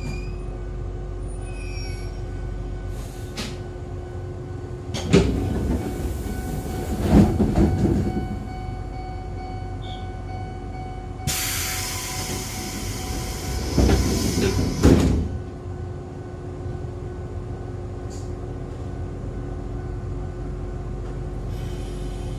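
Inside an Echizen Railway MC6101 electric railcar: a steady hum with several held tones, broken by two spells of loud low clattering knocks about five and fourteen seconds in, and a hiss of air for a few seconds between them.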